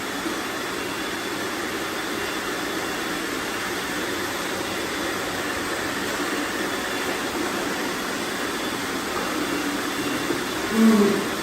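Several robot vacuums running steadily as they sweep up confetti, a constant whir. Near the end a short, louder sound stands out briefly.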